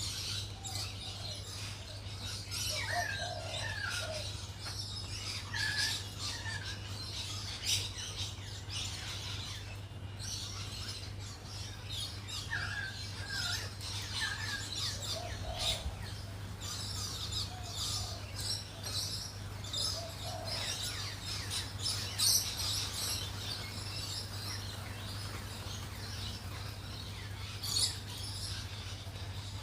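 Birds chirping and twittering: many short high chirps and clicks, with occasional softer, lower calls that slide in pitch.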